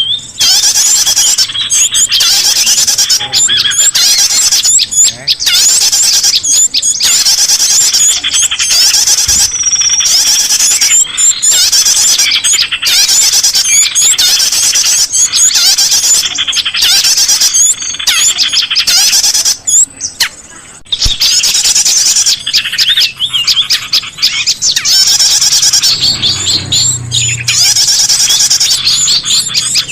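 Loud, dense chorus of small songbirds chirping and trilling, many fast high calls overlapping almost without pause, with a brief lull about two thirds of the way through: a bird-lure (pikat) recording for attracting small birds.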